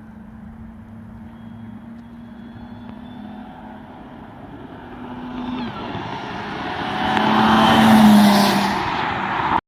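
Audi B8 S4's supercharged 3.0-litre V6 through a custom exhaust with Vibrant resonators and an X-pipe: a steady low drone for about five seconds, then growing much louder and harsher to a peak near the end before cutting off suddenly.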